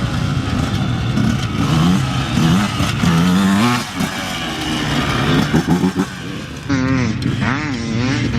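Dirt bike engines revving hard and running up and down through the gears, their pitch rising and falling again and again.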